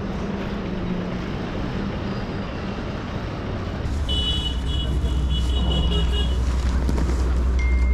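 Road traffic noise, a steady rumble that grows louder and deeper about four seconds in, with a high-pitched tone sounding for about two seconds.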